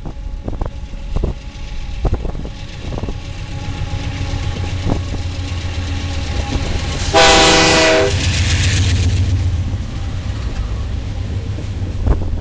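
Canadian Pacific GE AC4400CW diesel locomotives rumbling past at close range, with scattered clicks of wheels on the rail. One short horn blast sounds about seven seconds in, and the low engine rumble grows heavier just after it as the locomotives pass.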